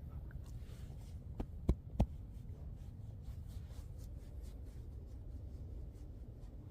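Footsteps walking through snow, an even step rhythm of about three a second over a steady low rumble, with two sharp thumps a third of a second apart about two seconds in.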